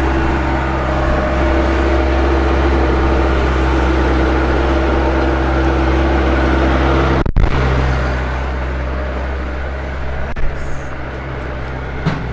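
An engine running steadily with a low hum, broken off once about seven seconds in, then running on with a few light knocks near the end.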